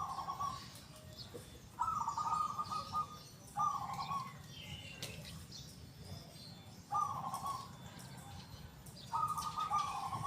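Zebra dove (perkutut) cooing: short rolling coo phrases repeated about every two seconds, four of them plus the tail of one at the start. Other small birds chirp faintly and higher-pitched behind it.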